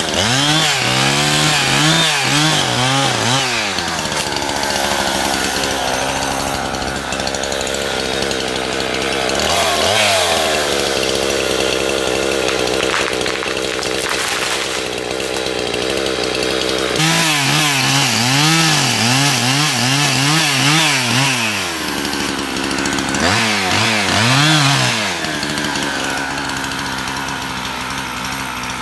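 Chainsaw running, its engine pitch rising and falling over and over as the throttle is worked, with longer stretches of steady high running in between, as when cutting into wood.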